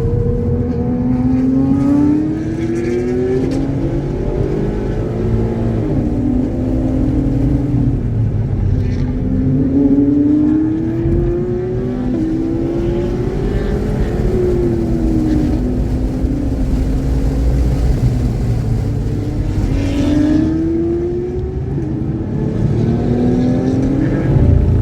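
A track car's engine pulling hard through the gears, its pitch climbing and then dropping at each shift, several times over, above heavy low road and wind rumble. The engine runs without misfiring.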